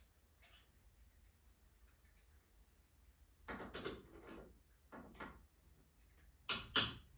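Tools and garage door hardware being handled: a few faint light clicks, then three short knocking, scraping sounds about three and a half, five and six and a half seconds in, the last the loudest.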